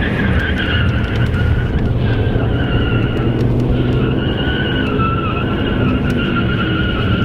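Car engine running under load with a long, wavering tire squeal from drifting.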